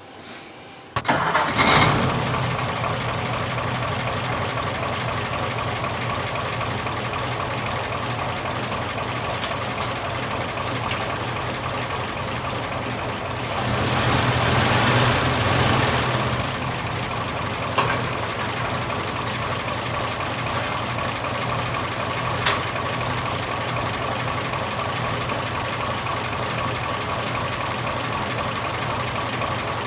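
The 1926 Oakland's six-cylinder engine starts about a second in, running on its own vacuum-tank, gravity-fed fuel system, and then idles steadily. It runs louder for a couple of seconds near the middle.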